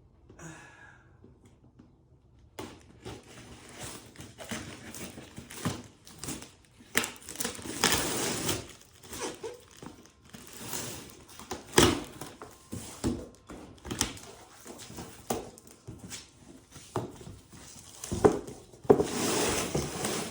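Packaging being unwrapped from a newly delivered muffler delete pipe: irregular crinkling, rustling and tearing, beginning a couple of seconds in, with a few sharper crackles.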